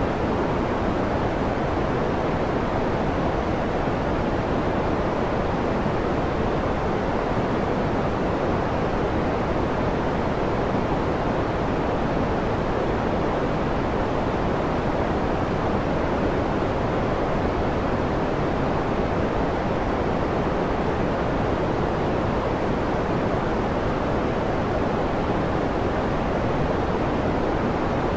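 Steady sleep noise track: an even, unchanging hiss with most of its weight in the lows and mids and little treble, more like pink noise than bright white noise.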